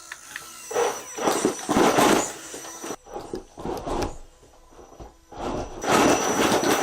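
RC 4x4 crawler truck working over wooden logs: irregular bursts of tyres scrabbling and scraping on wood, with a faint steady high whine underneath.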